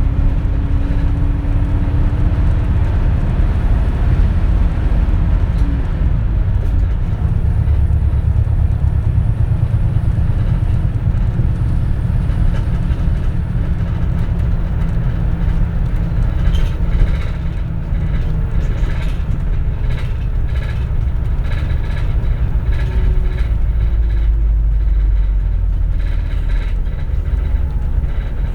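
Running sound of a 2004 CNG (compressed natural gas) city bus heard from inside the cabin: a steady, loud low engine and road rumble, with a patch of sharp rattling clicks about two-thirds of the way through.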